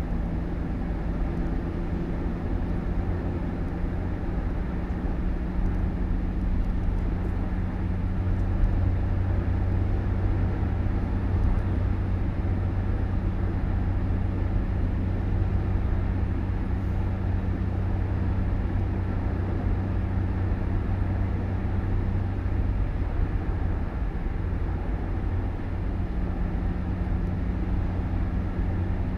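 Motor vehicle running steadily: a constant low engine hum over road noise.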